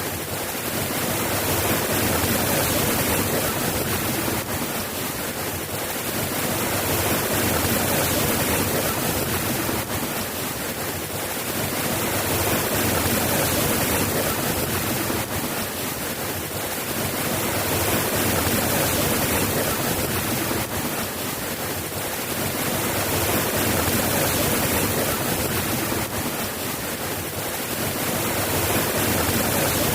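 Steady rain falling, an even hiss that swells and eases gently every five seconds or so.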